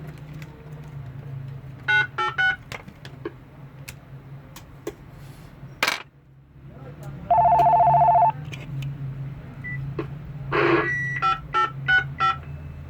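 Telephone key beeps: a quick run of short beeps about two seconds in, a louder steady tone lasting about a second near the middle, then another run of short beeps near the end, with scattered clicks between.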